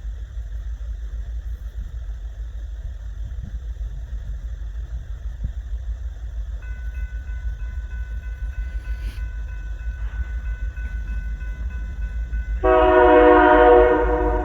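Norfolk Southern freight locomotive's air horn: a faint steady horn chord comes in about halfway through, then near the end a loud horn blast lasts about a second and a half before dropping back. A low steady rumble runs underneath.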